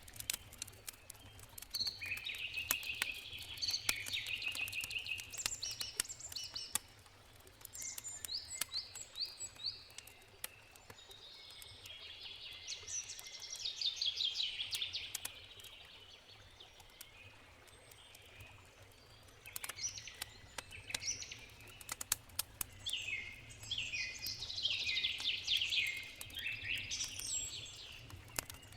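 Campfire crackling with scattered sharp pops and snaps, while songbirds sing repeated trilled, sweeping phrases over a low steady rush of a river.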